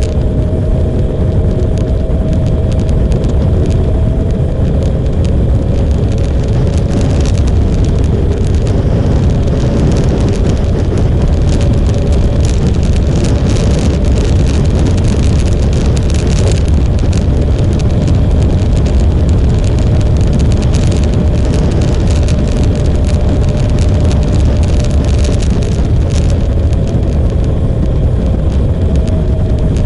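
Motorcycle running at a steady cruising speed on the road, a continuous low rumble with a faint steady engine tone that drifts only slightly.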